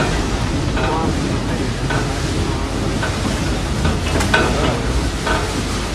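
A train running along the track, heard from on board: a steady rumble and rushing hiss of wheels on rail and passing air.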